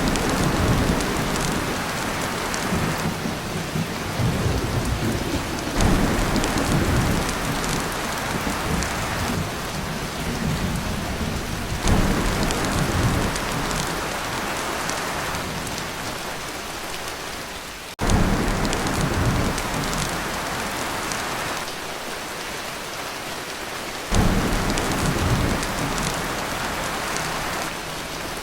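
Heavy rain drumming steadily on a tin roof, with low thunder rumbles that swell in about every six seconds and fade.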